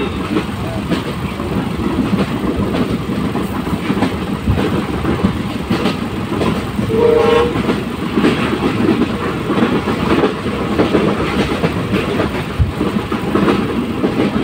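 Passenger train running, heard from on board: a steady rumble with the wheels clattering over the rail joints.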